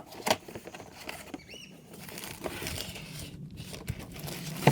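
Hand tools and parts being handled while servicing a tractor: a couple of sharp clicks near the start, then scattered light knocks and rustling over a low steady hum.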